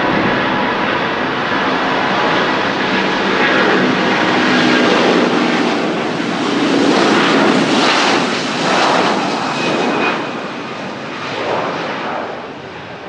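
Airbus A330-200 (KC-30) twin turbofan jet at takeoff thrust, passing by and climbing away. The jet noise swells to its loudest in the middle and fades over the last few seconds.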